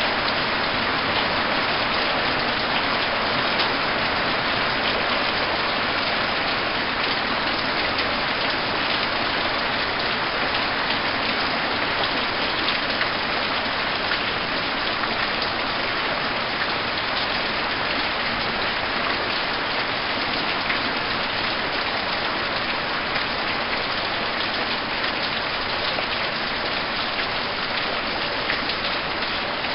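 Heavy storm rain falling steadily: a constant hiss of rain with scattered sharper ticks of drops hitting surfaces, unchanging throughout.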